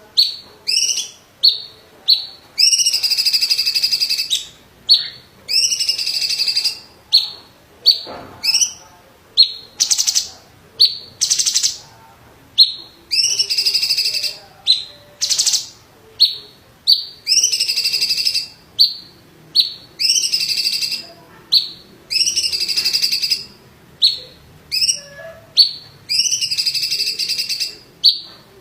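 Cucak cungkok (blue-winged leafbird) singing: sharp upslurred notes alternating with longer buzzy, rattling phrases about a second long, one roughly every two seconds.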